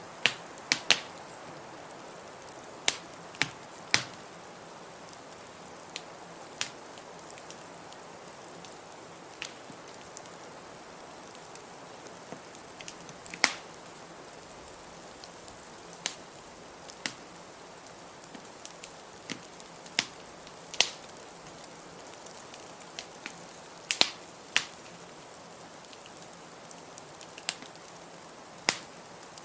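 Wood fire crackling in a fireplace: irregular sharp pops and snaps, sometimes two or three close together, over a steady hiss of blizzard wind.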